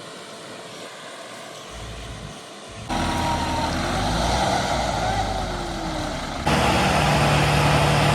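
Tractor engine running, heard in separate clips that cut in abruptly about three seconds in and again near six and a half seconds. The later clip is louder, with a steady low hum.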